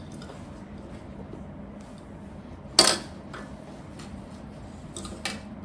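Plastic Lego pieces clicking and clattering as they are handled, with one sharp, loud clack about halfway through and a few lighter clicks after it.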